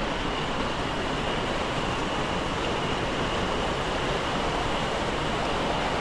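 Steady roar of the Iguazú Falls' rushing, falling water, even and unbroken, with a faint steady high-pitched tone above it.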